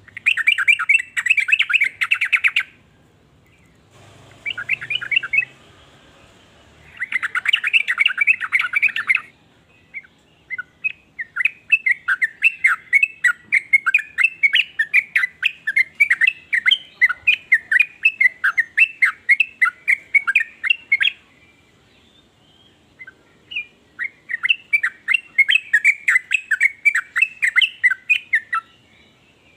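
Yellow-vented bulbul calling: several bursts of rapid bubbling chatter, then a long run of quick separate chirps through the middle, and another chattering burst near the end.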